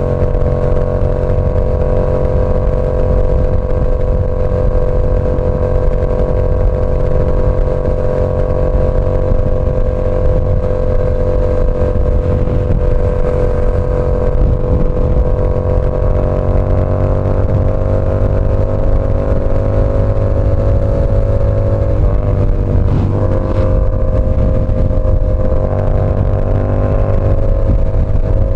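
Yamaha R7's parallel-twin engine through an SC Project CR-T exhaust, running at a steady, near-constant pitch. The pitch rises a little about two-thirds of the way through and briefly wavers shortly after.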